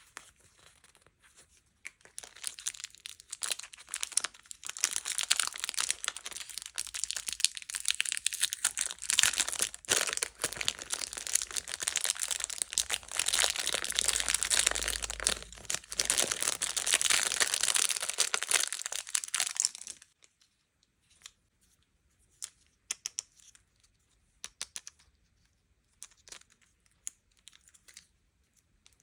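Sweets or toy packaging being crinkled and torn open by hand, a dense crackling that stops suddenly about two-thirds of the way through. Sparse small clicks and taps follow.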